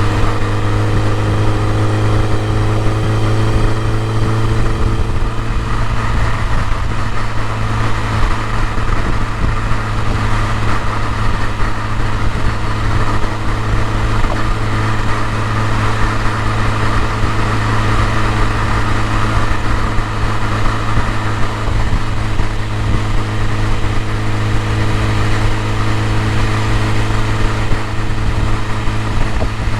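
BMW E30 M3's S14 four-cylinder engine idling steadily, with no revving.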